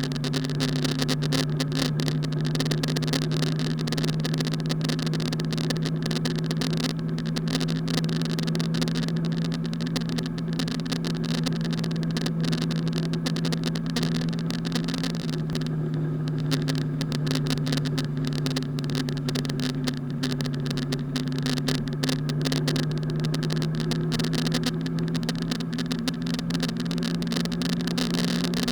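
Steady drone of a car's engine and road noise while driving, a low hum holding one pitch that shifts slightly about halfway through, under a constant rushing hiss.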